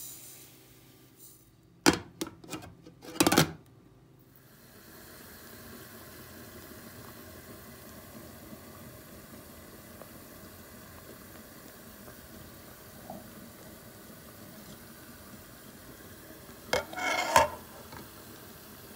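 Dishes and utensils clinking: a few sharp clinks about two seconds in, then a steady hiss, and a short clatter of dishes near the end.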